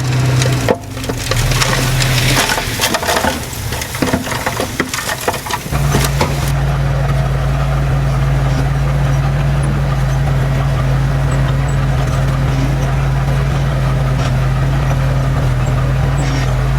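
Crunching and crackling of soil and debris being pushed or dumped over a running engine, for about the first six seconds. Then a heavy earthmoving machine's diesel engine runs steadily with a low drone.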